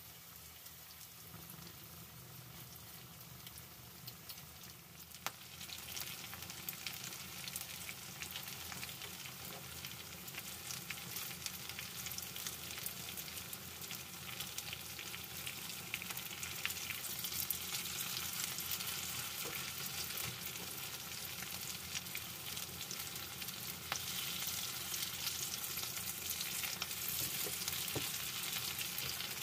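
Tortang talong (eggplant-and-egg patties) sizzling and crackling in hot oil in a pan, with a wooden spatula scraping and pressing them now and then. The frying grows louder about five seconds in and keeps building.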